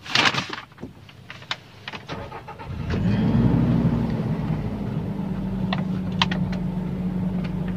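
Toyota Kijang Innova engine starting. A few clicks come first, then about three seconds in the engine catches, swells briefly and settles into a steady idle.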